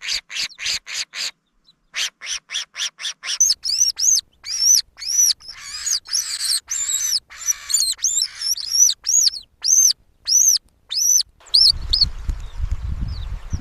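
A bird calling: a fast run of repeated high notes, about four a second, then after a brief pause a series of louder, arched high chirps. A low rumble comes in near the end.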